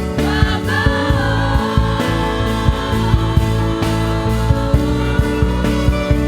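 Live gospel worship music: a singer's voice over a full band, with steady drum beats, bass and sustained keyboard chords.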